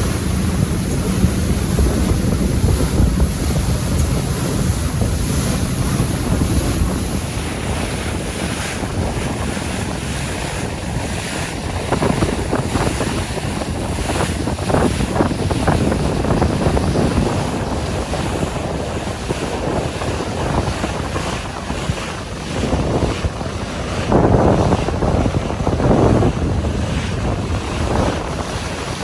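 Wind buffeting the microphone over the rush of waves and water, with gusts swelling louder about halfway through and near the end.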